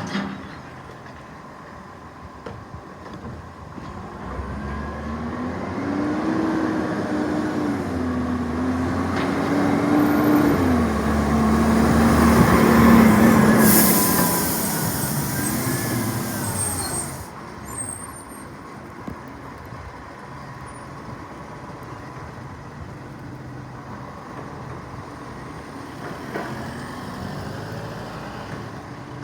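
Recycling garbage truck's engine revving up and wavering in pitch under load for about ten seconds, with a loud hiss of air for a few seconds near the middle, then dropping back to a steady idle.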